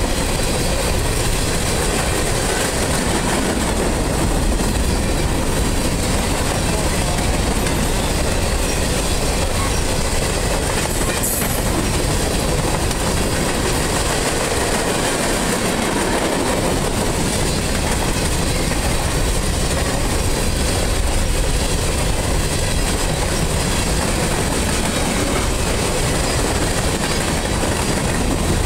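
A long string of empty covered hopper cars of a freight train rolling past: a steady, loud rumble and clatter of steel wheels on the rails.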